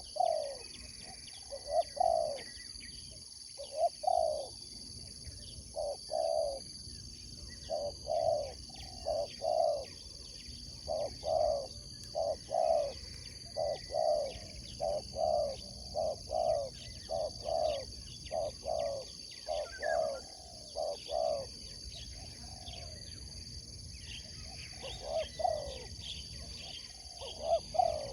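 Spotted doves (tekukur) cooing, a run of short low coo notes repeated in phrases, with a short pause about two-thirds of the way through.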